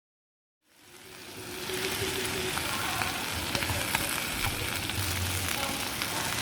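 Food sizzling and crackling as it cooks over a fire, fading in about a second in, then a steady hiss dotted with small pops.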